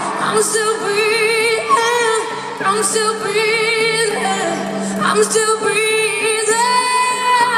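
Live female lead vocal singing long held notes with a wide vibrato over steady backing music.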